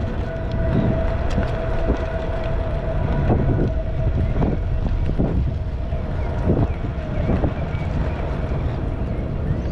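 Wind rushing over the microphone of a moving bicycle rider, with a steady low rumble and scattered clicks and knocks from the ride, and a faint steady tone underneath.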